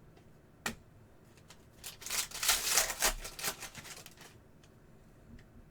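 Trading cards being handled: a single sharp tap, then a couple of seconds of rapid clicking and rustling as cards are flipped through.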